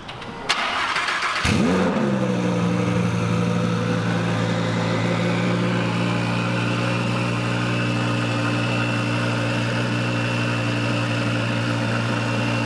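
Car engine started: about half a second of starter cranking, then it catches with a brief rev flare and settles into a steady, loud idle.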